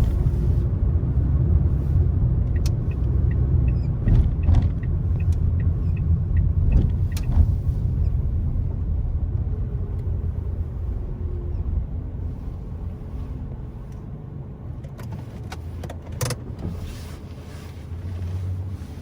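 Car driving on the road: a steady low rumble of tyres and engine with a few scattered light clicks and knocks. The rumble eases off gradually through the second half.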